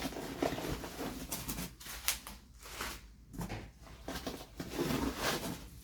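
Packaging being handled and opened while plates are unboxed: irregular rustling and scraping with a few short sharp knocks.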